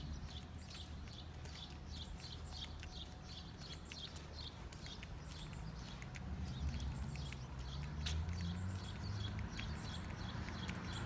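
Footsteps of someone walking, a quick regular clicking about three times a second, over a steady low rumble.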